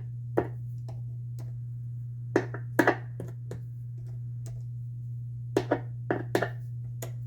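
Steady electric hum from a guitar amplifier with the Stratocaster plugged in, broken by about nine short, sharp clicks and taps at irregular intervals. The hum shows the cleaned output jack is passing signal again.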